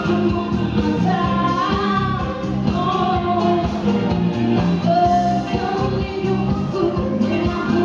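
A woman singing a pop song live over a traditional orchestra and band with a steady beat; her melody glides between held notes.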